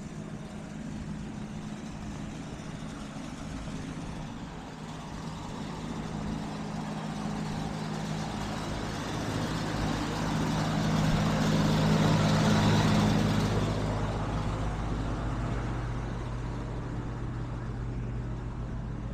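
Outdoor central air conditioner condensing units running: a steady hum from the compressors with the rush of the condenser fans, growing louder for a few seconds around the middle and then easing off.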